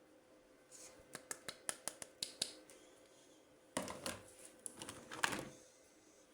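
Hands unboxing a toy, handling its packaging: a quick run of about eight sharp clicks, then about two seconds of rustling.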